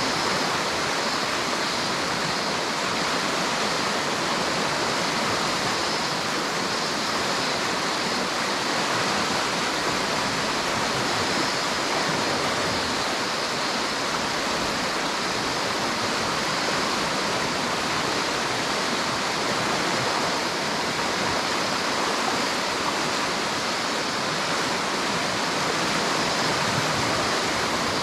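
River water rushing in a steady, unbroken stream.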